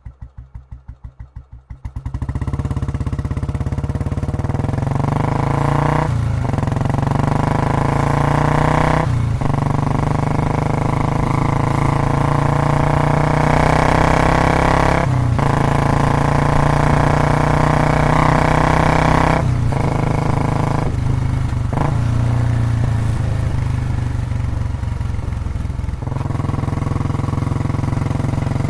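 Royal Enfield Classic 350 single-cylinder engine with a long Patiala aftermarket silencer, cold-started: it turns over with faint even pulses for about two seconds, catches, and then runs loud and heavy, its revs rising and falling several times.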